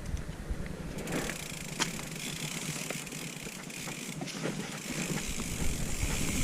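Mountain bike rolling over a dirt trail: steady tyre hiss with scattered sharp clicks and rattles from the bike's chain and frame. A low rumble builds near the end as speed picks up.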